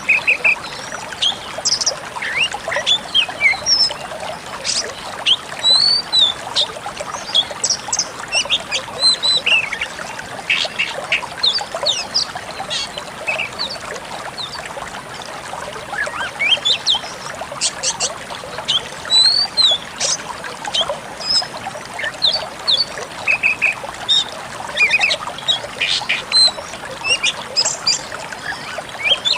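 Decu kembang songbird singing: a fast, continuous string of short chirps and quick whistled notes, over a steady hiss.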